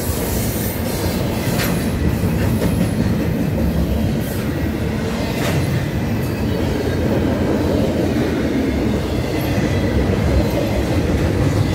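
Double-stack intermodal container well cars of a freight train rolling past: a steady rumble of steel wheels on rail, with a few sharp clicks from the wheels and rail joints.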